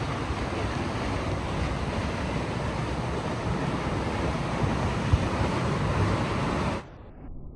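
Waterfall pouring: a loud, steady rush of falling water, with a brief low thump about five seconds in. The rush cuts off abruptly near the end, leaving a much quieter, muffled background.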